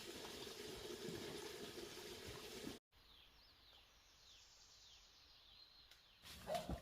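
Quiet forest ambience with a steady hiss. After an abrupt cut about three seconds in, a bird calls in a quick series of short, falling chirps, and a few knocks and rustles follow near the end.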